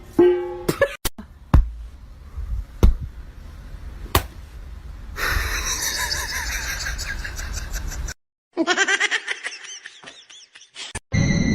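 Several sharp knocks in the first few seconds, then people laughing in bursts.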